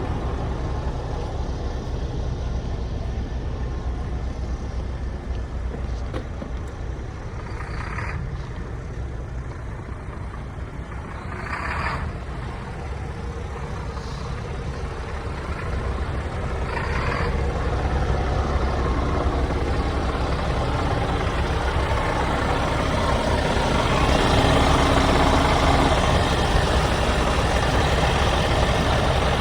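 Scania truck's diesel engine running steadily, with three short air hisses, and growing louder over the second half.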